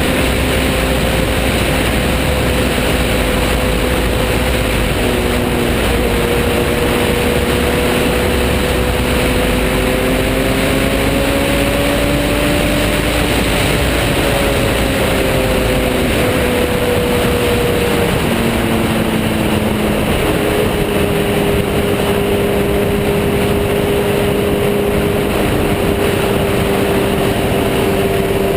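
Motorcycle engine running at a steady cruise under heavy wind rush. Its pitch rises slowly and falls back, then drops and settles lower about two-thirds of the way through.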